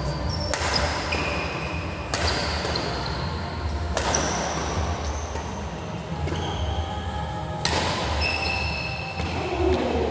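Badminton rally in an indoor sports hall: four sharp racket hits on the shuttlecock a second and a half to nearly four seconds apart, with brief high shoe squeaks on the court floor and an echoing, rumbling hall.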